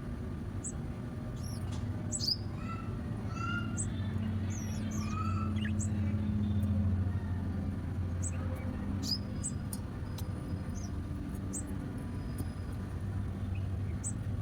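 Small birds chirping: short, high chirps repeated every second or so, with a run of varied, lower gliding calls a few seconds in. A low steady rumble runs underneath, loudest about halfway through.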